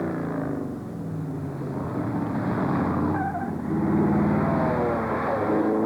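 Classic car engine running under load, its pitch dropping and rising as the driver comes off and back on the throttle, pulling harder from about four seconds in.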